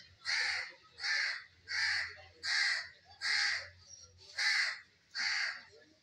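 A bird giving a harsh, raspy call over and over in an even rhythm, about seven calls, each roughly half a second long, with a slightly longer gap around the middle.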